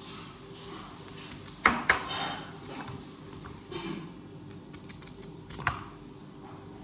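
Kitchen knife chopping vegetables on a cutting board: a few irregular sharp knocks, two close together about two seconds in and another near the end, over a steady low hum.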